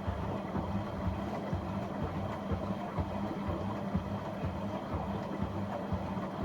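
Washing appliance running a wash cycle: a steady motor or pump hum with irregular low sloshing pulses of water.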